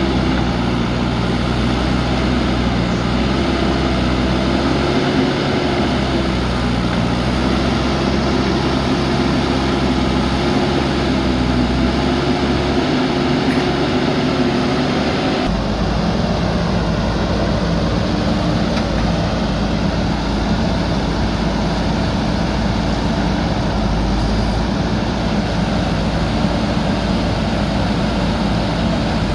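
JCB backhoe loader diesel engine running under load, its pitch rising and falling as it works. About halfway through the sound changes abruptly to a steadier, deeper drone.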